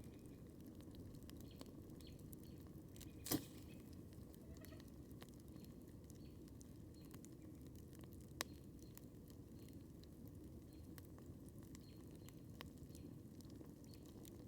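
Wood campfire crackling faintly with scattered small ticks over a low steady background noise, and two sharper pops, the louder about three seconds in and another about eight seconds in.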